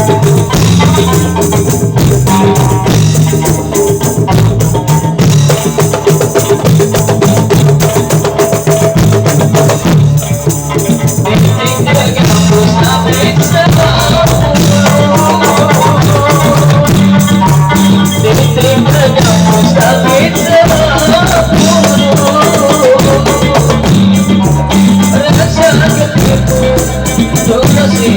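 Traditional Malay zapin (jepen) music played by the ensemble without singing: ketipung hand drums keep a fast, steady beat under a gambus melody.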